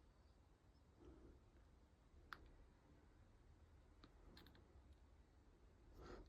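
Near silence with a few faint, scattered clicks, one every second or two.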